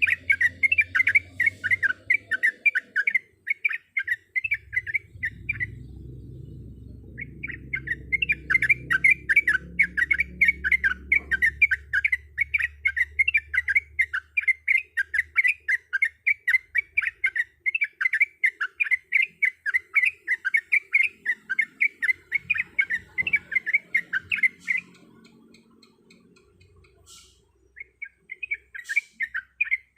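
Yellow-vented bulbul (trucuk) singing long runs of rapid, repeated chattering notes, about three a second, breaking off twice for a second or two.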